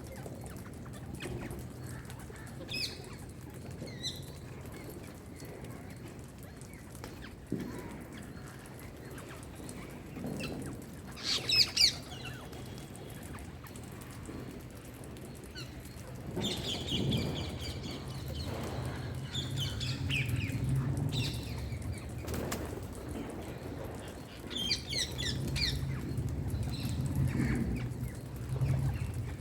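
Pet rose-ringed parakeet (Indian green parrot) calling in short, high chirps and squawks. The calls are scattered at first, with the loudest pair about twelve seconds in, then come more often in the second half over a low steady hum.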